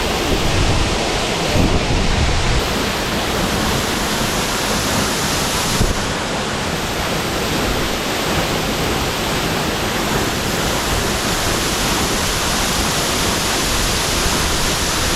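Waterfall water falling and rushing in a loud, steady roar.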